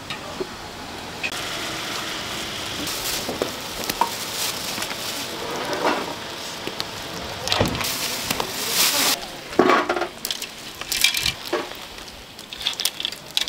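Food sizzling in oil on a hot griddle, with a metal spatula scraping across it several times.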